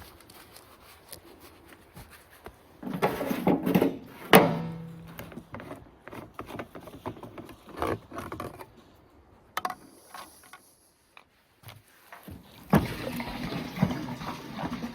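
Scattered knocks and clunks of handling, with one louder clank about four seconds in that leaves a short low ringing hum, and a steady rushing noise starting near the end.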